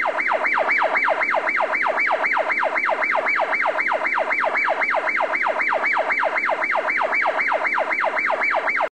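Electronic fire-engine siren in a fast yelp, about four falling sweeps a second, steady throughout and cutting off suddenly near the end.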